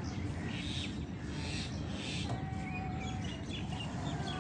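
Birds calling, with short high chirps and one held whistled note a little past the middle, over a steady low background rumble.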